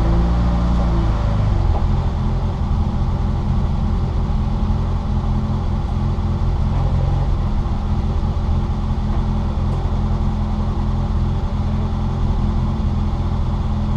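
Citroën Saxo VTR race car's 1.6-litre four-cylinder engine heard from inside the car, running at nearly steady revs, over a low rumble of road and wind noise. The pitch shifts a little in the first two seconds, then holds level.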